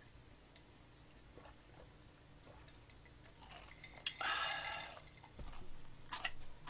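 Close-miked chewing of crisp fried chicken karaage: soft chewing clicks, a louder noisy burst about four seconds in, then sharp crunches near the end.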